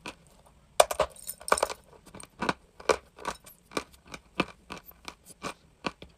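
Dry, crunchy chalk crunching: a quick cluster of crunches about a second in, then a steady run of single crunches, two to three a second.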